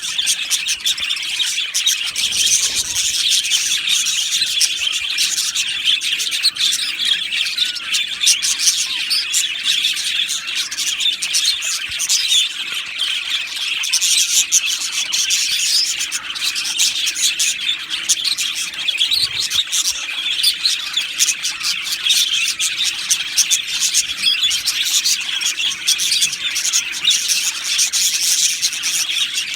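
A colony of budgerigars chirping, chattering and warbling all at once in a dense, continuous overlapping chorus.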